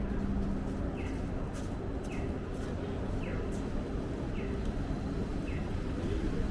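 Steady low city rumble, with a short high chirp that slides downward, repeating about once a second.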